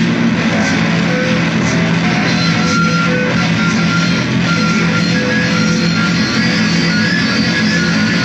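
Loud, distorted guitar music: a dense, steady wall of sound with a few long held notes over it.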